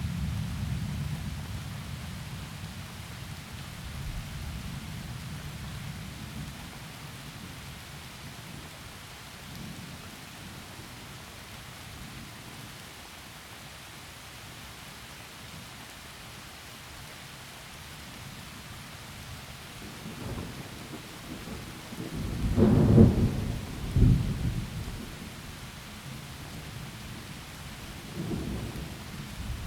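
Heavy rain falling steadily through forest trees, with rolling thunder: a low rumble dying away in the first few seconds, then two loud cracks of thunder about two-thirds of the way through, and another rumble starting near the end.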